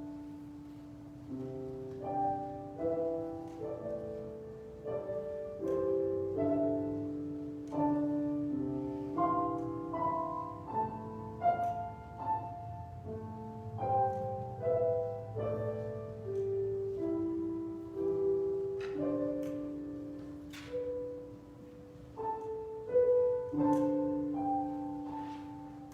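Solo piano playing a slow, quiet piece: single notes and chords struck one after another and left to ring and fade.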